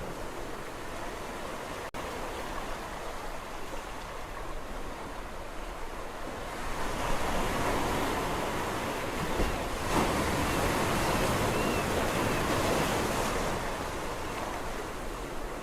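Sea waves on a shore: a steady wash of surf, with a larger wave building about six seconds in, breaking and washing out over the next several seconds. Near two seconds in, the sound drops out for a split second.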